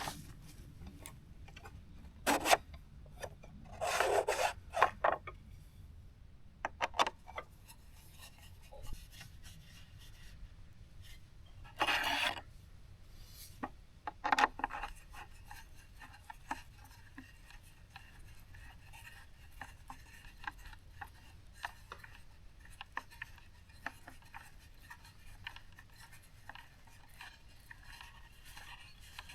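Rustling and scraping of tent fabric and camping gear being handled. Short louder rustles come about 2, 4, 5, 12 and 14 seconds in, with quiet rubbing between them.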